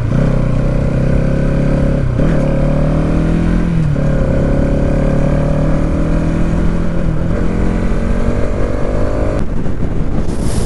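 Bajaj Pulsar NS200's single-cylinder engine running under load on the move. Its note dips and picks up again twice, then climbs slowly, while the nearly empty tank makes the bike jerk. Near the end the engine note breaks up into a rush of wind noise.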